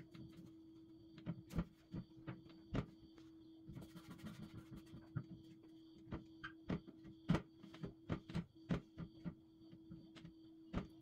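Irregular light clicks and knocks of hard household items being handled and set down, about twenty in all, with a brief rustle about four seconds in, over a steady electrical hum.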